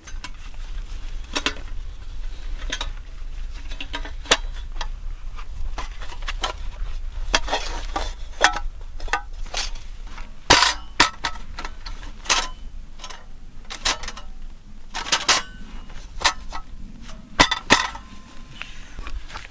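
Camp gear being handled: irregular clinks and knocks of metal and cookware, some sharp and ringing, over a low steady rumble.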